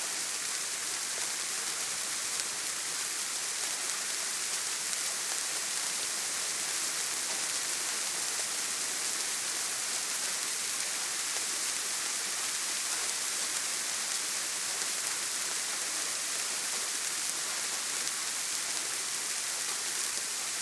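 Heavy rain falling steadily on a tin roof: a dense, even hiss with no thunder.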